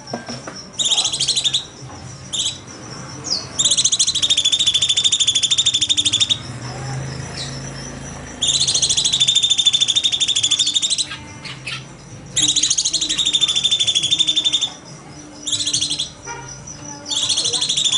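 A cucak cungkok singing loud, fast rattling trills, four long ones of about two and a half seconds each with short bursts between them.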